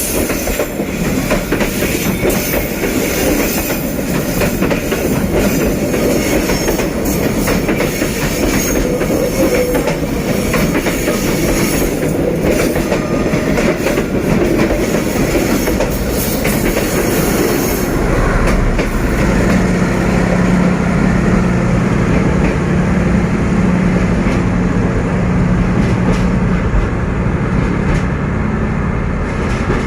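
D19E diesel-electric locomotive hauling a passenger train, with its wheels clattering and squealing on the rails. About 18 seconds in, the high rushing noise drops away and a steady low engine hum carries on.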